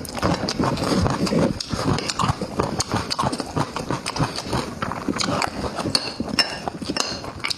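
Close-miked eating: rapid, irregular wet chewing and lip-smacking clicks.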